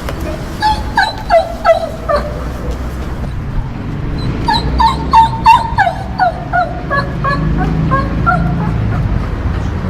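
A dog whimpering and crying in short, high-pitched whines, each falling in pitch. There is a bout of a few whines about a second in, and a longer run of many whines from about four seconds in, over a low background rumble.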